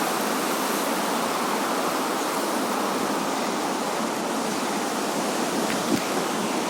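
Floodwater rushing past, a steady even rushing noise.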